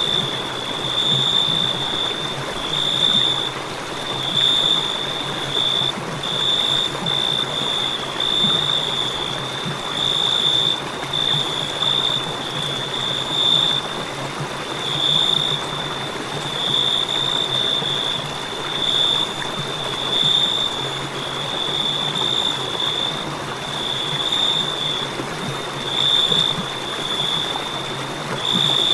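Crickets chirping in a continuous high trill that swells and fades about every second and a half, over a steady hiss.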